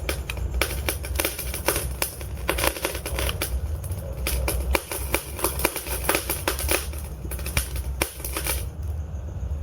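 Log fire in a fireplace crackling and popping: many sharp snaps every second over a steady low rumble of the flames.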